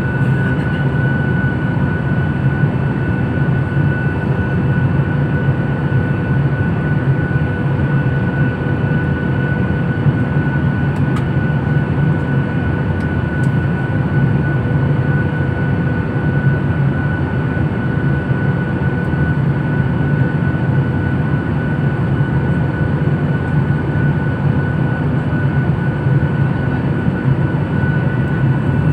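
Airliner cabin noise in flight: the steady drone of the engines and rushing air, with a steady whine above it.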